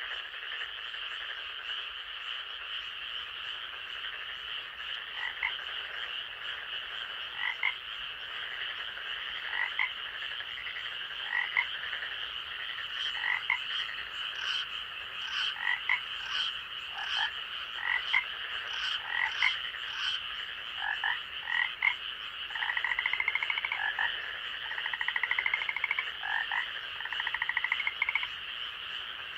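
Night forest frog chorus: short calls repeated every second or two over a steady high-pitched background chorus, with rapid trilling calls in the last few seconds.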